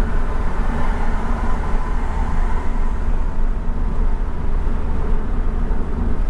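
Steady drone of a flat-four boxer sports car with a modified, louder exhaust, heard inside the cabin while driving, mixed with road and wind noise.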